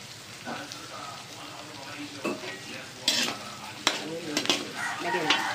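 Pork, garlic, onion, ginger, chili and dried fish sizzling as they sauté in a pan, stirred with a utensil that scrapes and knocks against the pan several times in the second half.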